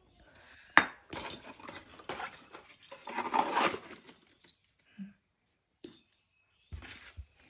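Light metallic clinks and rattling as tools or metal parts are handled, with a sharp click about a second in, a busy rattle over the next few seconds, and a few separate clicks near the end.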